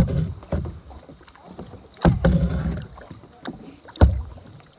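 Kayak paddle strokes dipping into and pulling through the water, a splashy surge about every two seconds.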